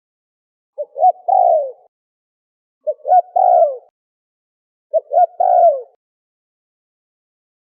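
Spotted dove (terkukur) cooing: three phrases about two seconds apart, each two short coos and then a longer falling coo, with silence between them.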